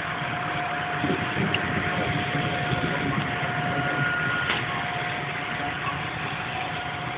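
Steady mechanical hum with a constant thin whine running through it, a few faint ticks on top.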